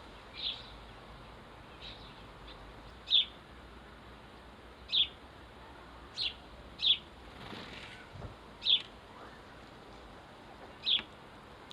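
House sparrow chirping: single short cheeps, about seven, spaced one to two seconds apart, each dipping slightly in pitch.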